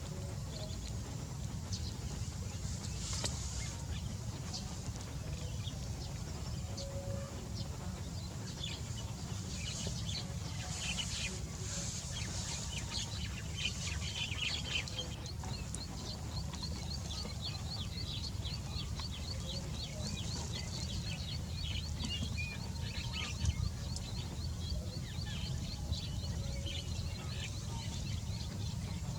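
Birds calling with many short high chirps, and for several seconds in the middle one bird repeats a rapid series of the same high note, over a steady low rumble.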